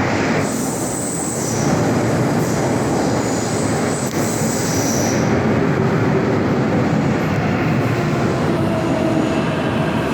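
MTR K-stock metro train running on the rails with a steady rumble, its wheels giving a thin, high-pitched squeal through the first half.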